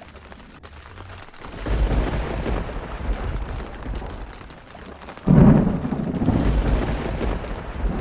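Thunderstorm: rain falling steadily while thunder rumbles. A low rumble swells about a second and a half in, then a sharp, loud clap about five seconds in rolls on to the end.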